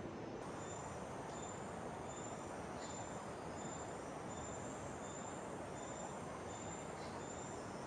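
An insect, cricket-like, chirping in short high pulses at a steady rhythm, a little under two a second, over a steady rushing background noise.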